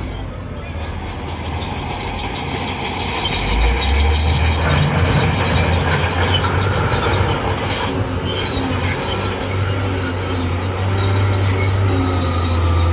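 Crawler bulldozer running under load with the high metallic squeal of its steel tracks, over a steady low engine drone.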